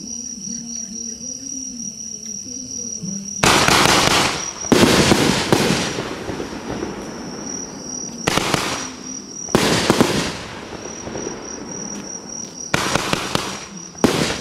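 A 400 g consumer firework cake firing: about three and a half seconds in, the shots start, and six loud bursts of bangs and crackle follow, each lasting about a second, in uneven groups.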